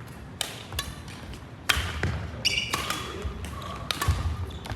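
A badminton rally in a hall: sharp racket hits on the shuttlecock and footfall thuds every half second or so, with short high squeaks of shoes on the court floor.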